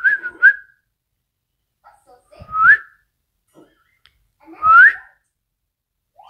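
A person whistling: a quick run of short whistled notes at the start, then two single rising whistles about two seconds apart.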